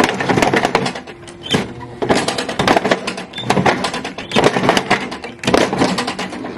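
Lawnmower blade chewing up plastic toys: bursts of rapid clattering and crunching about once a second.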